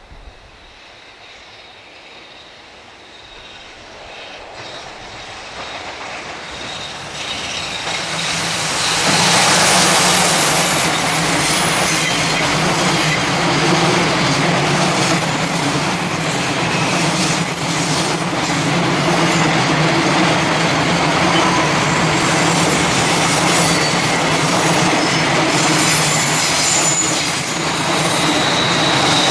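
JR Freight electric-hauled container train approaching, growing steadily louder over the first nine seconds or so, then its Koki container wagons rolling past at speed in a continuous rumble of wheels on rail with a thin high-pitched squeal above it.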